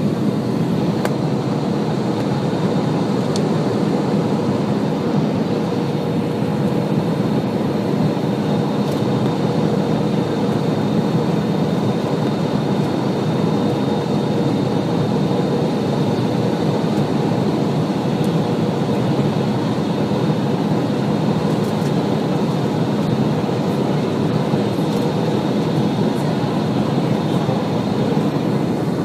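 Steady cabin noise of an Airbus A320-200 in flight on approach: a constant rumble of the jet engines and rushing air, with a steady high whine on top.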